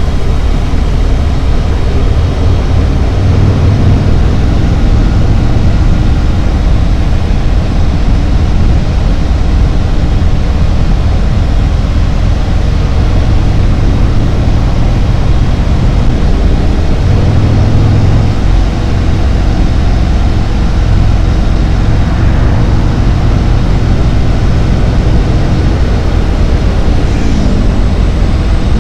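Harley-Davidson Road Glide's V-twin engine running steadily at road speed, a low engine note that rises and falls slightly a few times, under a steady rush of wind and road noise.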